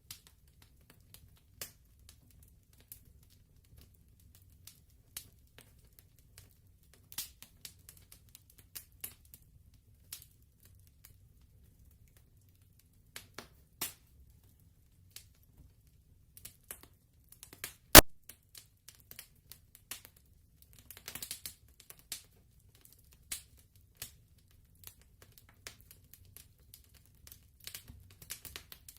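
Wood fire crackling, with scattered irregular pops and one much louder pop about eighteen seconds in, over a faint low rumble.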